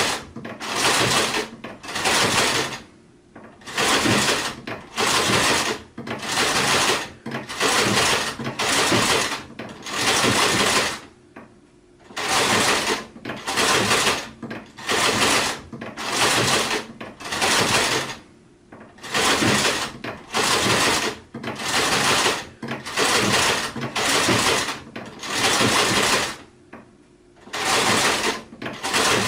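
Sewing machine stitching in short bursts of under a second each, starting and stopping over and over, with a few longer stops between runs.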